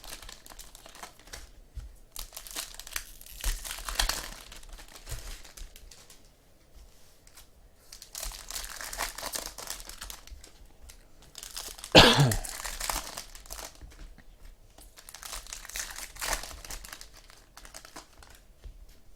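Trading-card pack wrappers crinkling and being torn open, with cards handled in between, in short scattered rustles; the loudest rustle comes about twelve seconds in.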